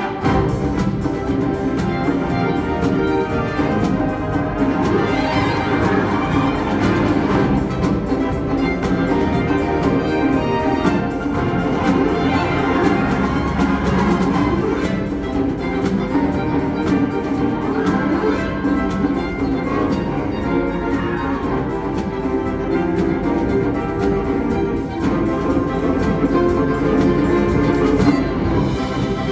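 Wind band playing live: woodwinds and brass in full, sustained chords at a steady, fairly loud level.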